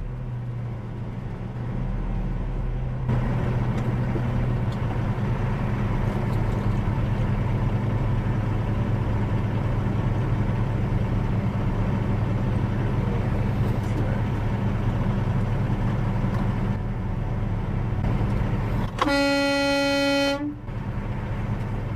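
Steady engine and road noise from a vehicle on the road, with one long horn blast about nineteen seconds in, lasting about a second and a half.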